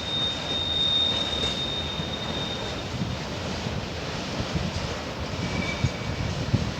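Freight train of covered goods wagons rolling slowly past, with low rumbling and clattering of wheels on rails. A high, steady wheel squeal runs for about the first three seconds, then stops.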